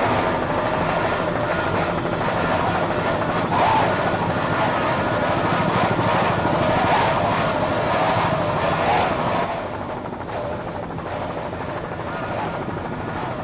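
Helicopter running steadily, its rotor and engine noise dropping somewhat in level about nine and a half seconds in.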